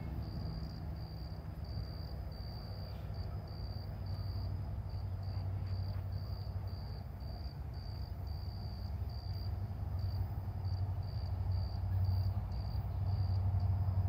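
Low rumble of an approaching diesel-hauled coal train, still distant, growing louder near the end. Over it, an insect chirps in short even pulses, about two a second.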